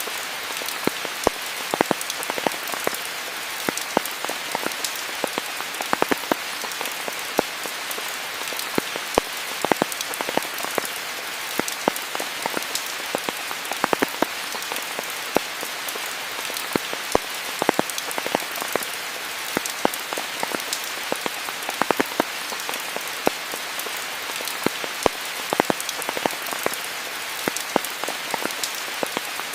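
Steady rainfall: an even hiss of rain with frequent sharp, close drop strikes ticking through it.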